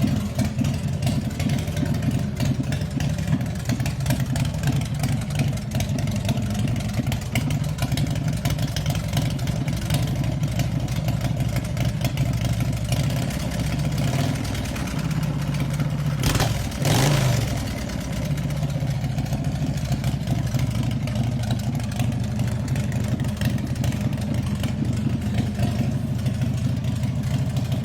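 A 2003 American IronHorse chopper's V-twin engine running at a pulsing idle, blipped once about two-thirds of the way through before settling back to idle.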